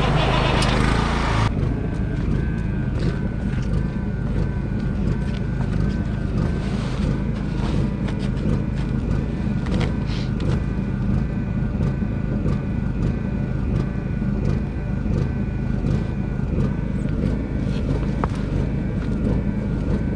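An engine idling steadily with a low rumble. A loud hiss on top of it cuts off suddenly about a second and a half in.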